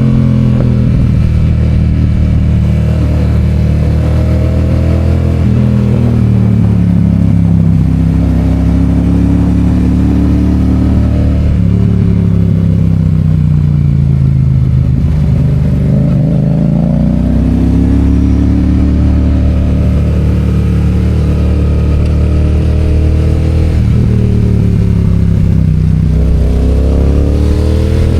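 Yamaha FZ-07's parallel-twin engine on the move, its pitch climbing and dropping as the rider accelerates and shifts gears, with sudden gear-change steps about five and a half seconds and about twelve seconds in. Around fifteen seconds the revs sink low and then climb again.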